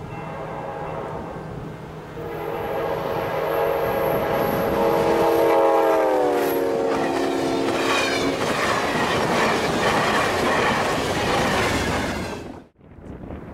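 Amtrak P42DC diesel locomotive sounding its multi-note horn as it approaches, the chord dropping in pitch as the locomotive passes about six seconds in. The horn is followed by the rushing clatter of passenger cars rolling by on the rails, which cuts off abruptly near the end.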